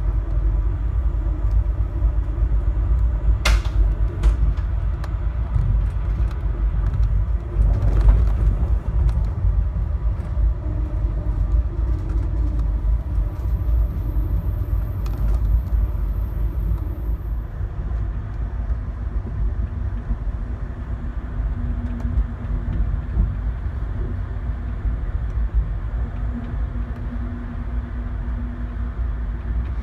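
Steady low rumble of a moving Amtrak passenger car's wheels on the rails, heard from inside the car. A sharp click comes about three and a half seconds in and a knock about eight seconds in.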